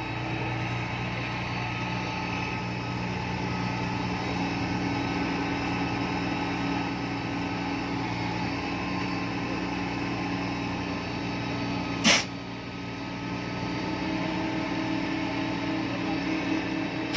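Epiroc DM45 drill rig's engine running steadily with a low, even hum. A short sharp burst cuts in once about twelve seconds in and again at the end.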